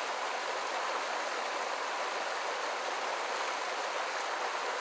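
Creek water rushing steadily over rocks, an even hiss of flowing current.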